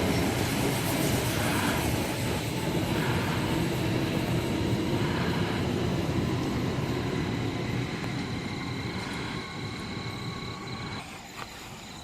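Sydney Trains Waratah electric multiple unit pulling away from the platform, its rumble and a thin high whine fading steadily as it leaves.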